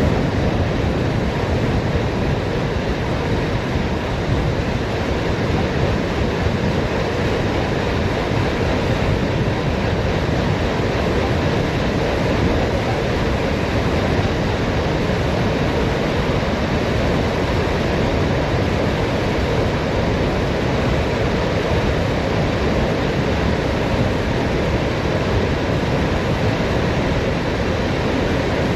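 Steady wind rush buffeting the microphone of a bicycle coasting downhill at speed.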